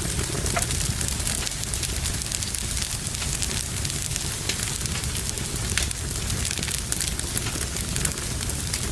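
Wood fire burning in a fireplace, with a steady low rumble and frequent small crackles and pops.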